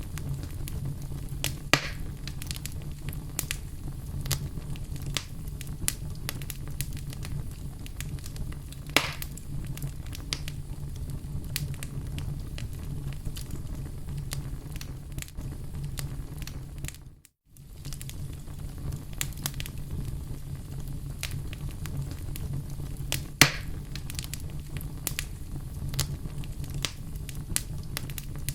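Wood fire crackling, with a steady low rumble under dense small snaps and a few louder pops. The sound drops out briefly about two-thirds of the way through.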